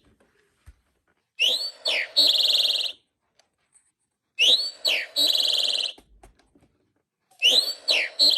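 Mark Feldstein & Associates singing bird clock playing its eastern towhee recording: a "drink-your-tea" song of two slurred notes and a buzzy trill, repeated three times about three seconds apart.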